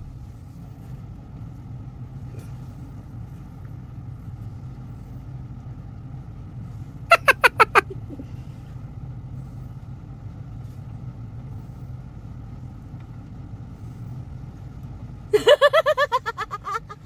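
Car engine idling, a steady low hum heard inside the cabin. Two short loud bursts of rapid pulses break in, one about seven seconds in and one near the end.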